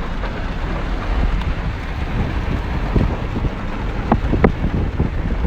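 Rain falling with wind rumbling on the microphone, a steady noise throughout. About four seconds in, two short sharp sounds rise above it.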